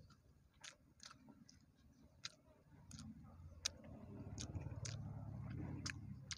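A person chewing a mouthful of pig skin with lips closed, with sharp wet mouth clicks scattered throughout. A low hum swells in the second half and fades near the end.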